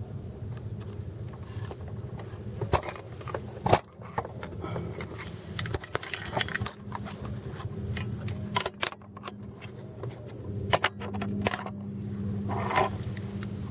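Car engine idling steadily, with several sharp clicks and clatters of handling over it.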